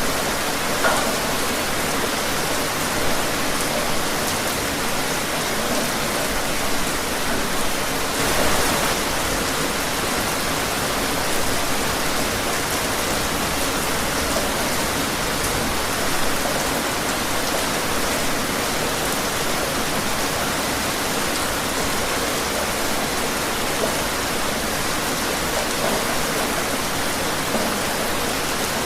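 Steady rain falling, an even hiss of drops with a few slightly louder spatters, such as about a second in and again a third of the way through.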